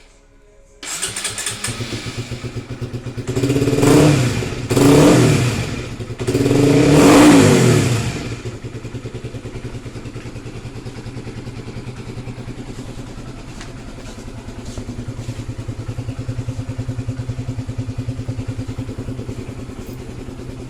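Honda CB150R's single-cylinder engine through an RX8 aftermarket exhaust with its dB killer fitted, idling, then revved three times a few seconds in, each rev rising and falling, before settling back to a steady idle.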